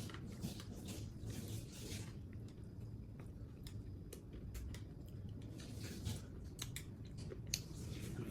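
A person eating close to the microphone: chewing with soft crunches, wet squishes and small clicks coming in irregular bursts.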